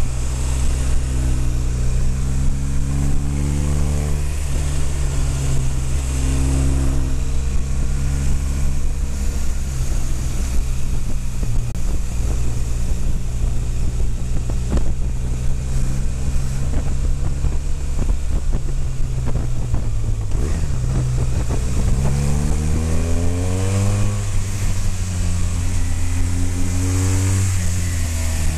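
BMW motorcycle engine running under way, rising in pitch several times as it accelerates out of bends, over steady wind rush on the onboard microphone.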